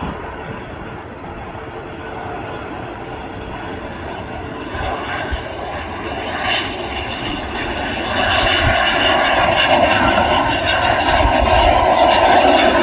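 Jet aircraft engines at takeoff, a steady roar that grows louder and steps up noticeably about eight seconds in.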